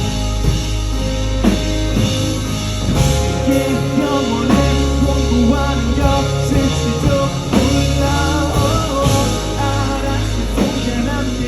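A live band playing a rock song, with a drum kit, a held bass and a melody that wavers in pitch over them.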